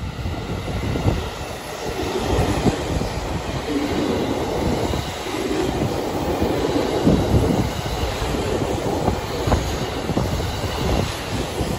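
JR Central 313 series electric multiple unit passing slowly through a station close by: a steady rumble of wheels and running gear, with a few sharp knocks.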